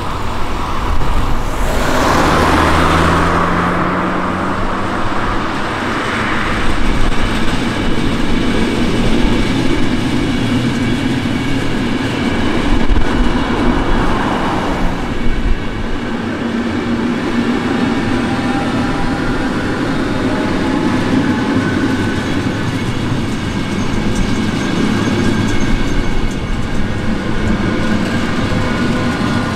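A Belgian SNCB passenger train passing close by on an electrified line. A loud rush swells about two seconds in as the front goes past, then a continuous rumble of wheels on rails carries on as the coaches roll by.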